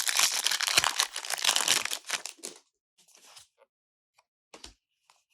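Foil booster pack wrapper being torn open and crinkled, a dense crackling rustle for about two and a half seconds, then a few faint rustles and clicks.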